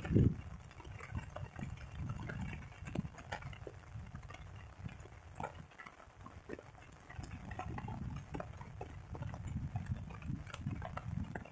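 Irregular light ticks and taps, as of raindrops striking surfaces, over a low uneven rumble, with a louder thump right at the start.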